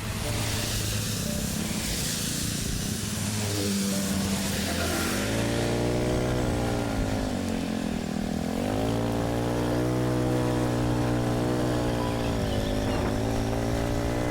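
A small motorbike engine running, its pitch rising and easing off several times as it is ridden, over a light hiss of rain during the first few seconds.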